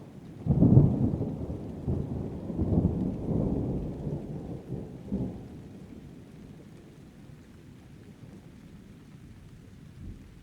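A clap of thunder breaks about half a second in and rolls on in several low rumbles for about five seconds before fading, over steady rain.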